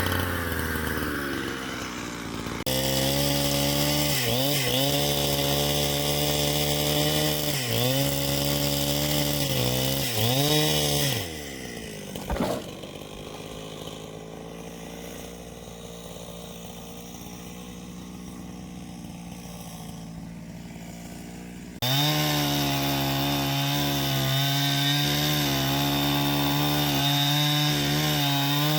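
Two-stroke chainsaw running at full throttle, its pitch dipping briefly a few times as it cuts into wood. About eleven seconds in it drops to idle with a single knock, then revs back up to full throttle for the last several seconds.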